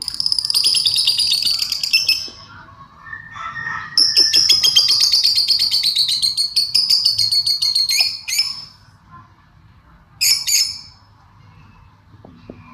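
A bird chirping in fast runs of repeated high notes. A run of about two seconds, then a longer run of about four seconds, then a short burst near the end.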